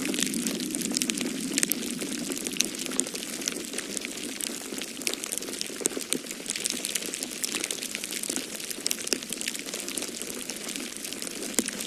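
Wood fire in a fireplace crackling: many small irregular pops and snaps over a steady hiss, with a steady low rush of snowstorm wind beneath.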